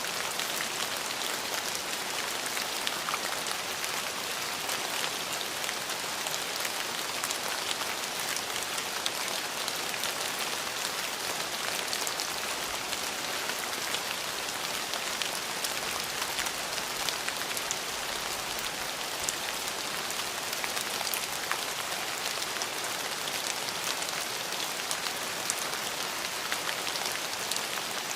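Steady rain falling, a constant even hiss with many fine drop ticks throughout.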